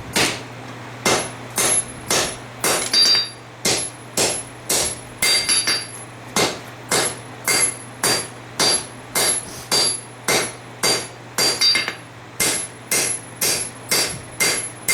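Hand hammer striking hot steel on an anvil, drawing out the tang of a knife forged from a farrier rasp: steady blows about two a second, each with a bright ring, with a few brief pauses.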